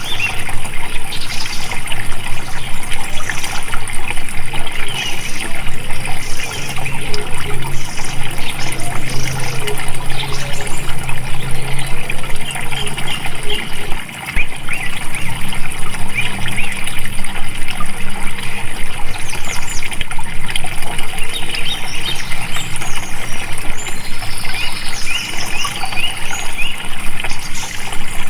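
Water flowing and splashing steadily, with small birds chirping repeatedly over it. The sound dips briefly about halfway through.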